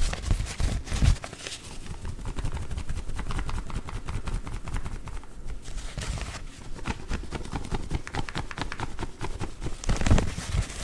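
Coffee filter bags being handled, giving a dense run of quick clicks, taps and rustles, with heavier thumps about a second in and near the end.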